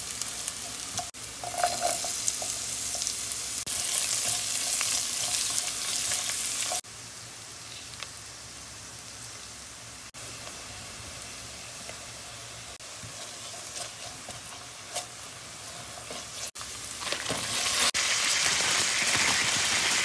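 Meat strips, garlic and vegetables sizzling and frying in hot oil in a cast-iron pot while being stirred with a spatula. The sizzle drops suddenly about seven seconds in and grows loud again near the end, as snow peas go in.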